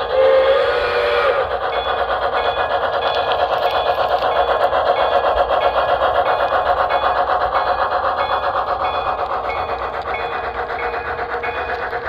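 Model steam locomotive's sound system blowing a whistle blast in the first second and a half, then the steady running sound of the model train, with a faint, regular light ringing.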